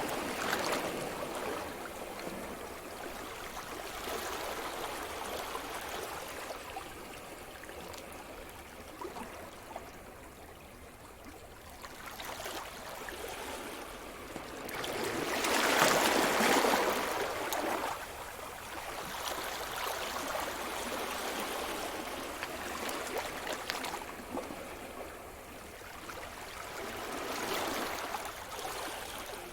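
Sea surf: waves breaking and washing up the shore in slow swells, the biggest one about halfway through and a smaller one near the end.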